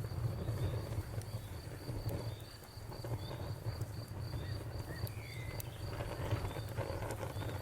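Cricket chirping steadily in a high, even pulse of about four chirps a second, over a low steady rumble. A short falling bird call comes about five seconds in, and a few faint campfire crackles occur.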